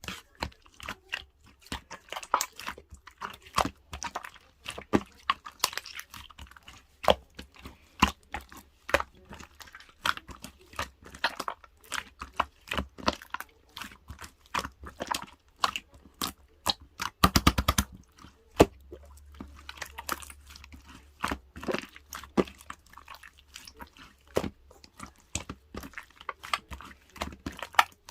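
Rapid, irregular crisp clicks and crunches, with a brief fast rattle of clicks about seventeen seconds in.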